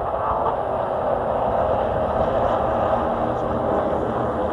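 Chevy race truck's engine running steadily at racing speed under green-flag laps, with road and drivetrain noise and no let-up.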